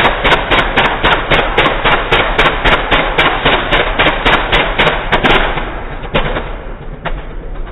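Diesel engine running with loud, sharp, evenly spaced knocks, about three a second, over a steady rumble. The knocks die away about five and a half seconds in, leaving the engine running quieter.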